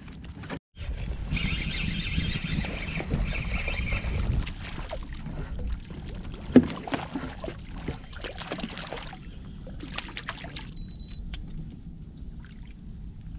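Low steady rumble of wind and water around a small fishing boat, with scattered clicks and knocks and one sharp knock about six and a half seconds in.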